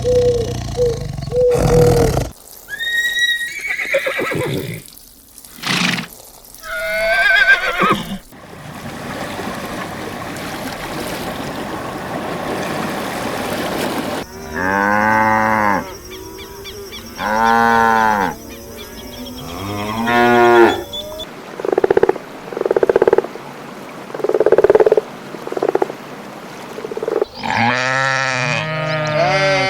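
A run of farm animal calls from several different animals in turn: a few varied calls, a stretch of steady noise, then repeated long calls that rise and fall in pitch, with more such calls near the end.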